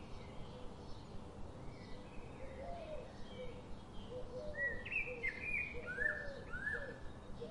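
Several wild birds calling over a steady background hiss: short chirps, some rising and some falling, that grow louder and busier from about four and a half to seven seconds in, with lower, repeated falling notes beneath them.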